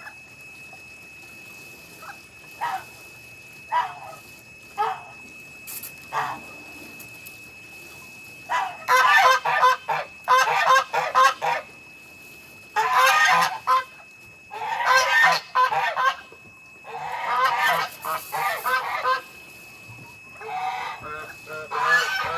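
Geese honking: a few single honks, then several loud bouts of rapid repeated honking.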